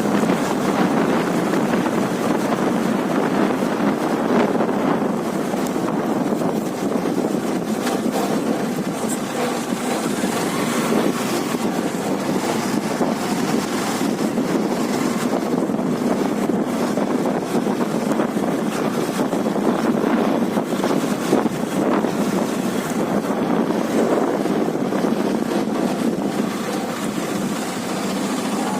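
Wind rushing over the microphone while riding a Hero Karizma R motorcycle, with its engine running underneath in a steady, even rush.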